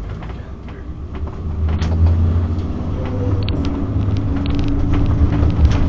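Motorhome engine and road rumble heard from inside the cab, growing louder as the coach picks up speed, with light rattles and creaks from the cabin.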